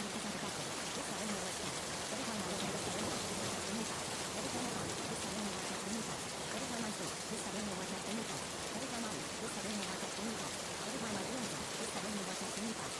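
Steady rainfall, an even hiss of rain on surfaces. A faint low, wavering hum pulses under it again and again, a bit more than once a second.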